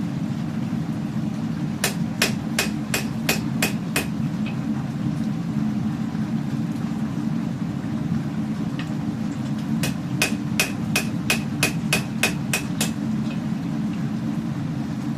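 Hammer striking hot steel on an anvil while forging a katana blade: two runs of evenly paced blows, about three a second, each with a short metallic ring. There are about seven blows, then a pause, then about ten more. A steady low drone runs underneath.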